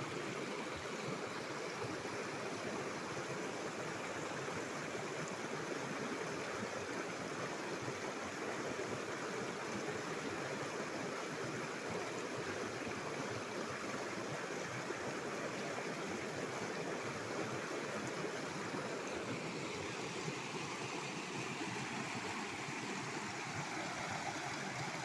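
Water flowing steadily in a continuous, even rush.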